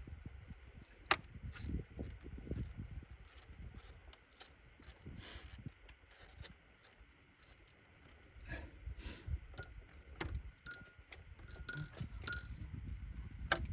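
Scattered metallic clicks and clinks of hand tools and small parts being worked under a car's hood, irregular rather than a steady ratchet rhythm, with one sharp click about a second in.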